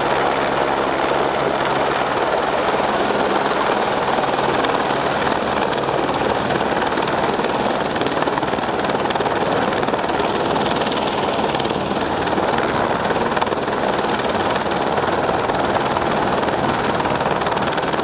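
Helicopter running steadily, engine and rotor noise continuous, with a low hum that fades out a few seconds in.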